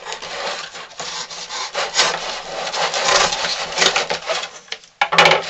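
Packaging being handled and rubbed while a toy RC buggy is unboxed: a continuous, uneven scraping rustle, with a short pause and a louder burst near the end.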